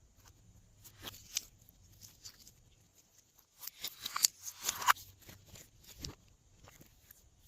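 Glossy slime being squished and mixed by hand, giving sticky clicks and small air-pocket pops, with a dense run of crackling pops about halfway through.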